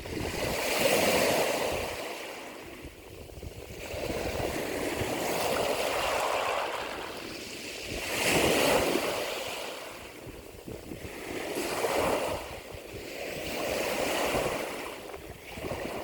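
Ocean waves surging and washing back, each swell rising and fading every three to four seconds.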